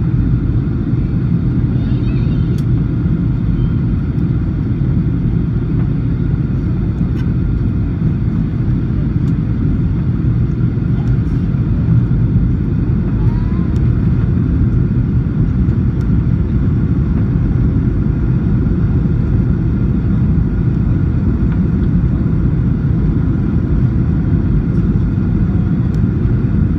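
Steady, loud cabin drone of a Ryanair Boeing 737-800's jet engines and rushing air, heard from inside the cabin as the plane comes in to land.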